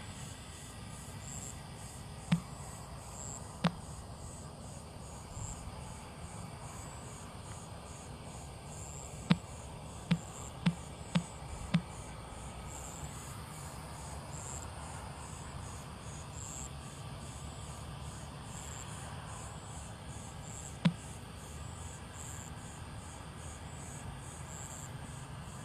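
Crickets chirping in a high, steady pulsing rhythm over a low background hum. Several sharp clicks cut in: two in the first few seconds, a quick run of five about nine to twelve seconds in, and one more near twenty-one seconds.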